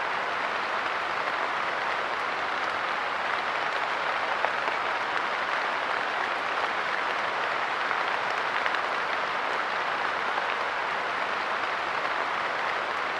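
Steady light rain falling on a park bench: a dense, even patter of drops with faint scattered ticks from single drops.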